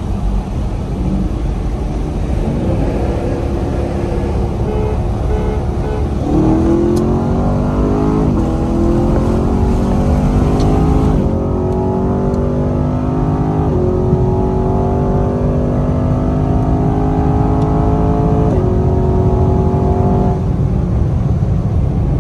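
Chevrolet Camaro with a 10-speed automatic under full-throttle acceleration from 40 mph, heard inside the cabin. About six seconds in, the engine note climbs hard, then drops back with each of about five quick upshifts as the pitch builds again between them.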